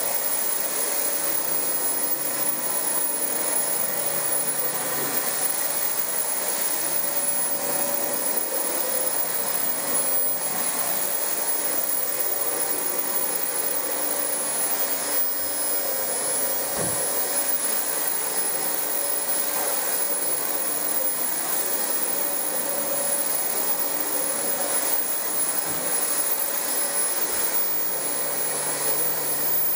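Dyson DC25 upright vacuum cleaner running steadily on carpet, a rush of air with a constant high whine from the motor.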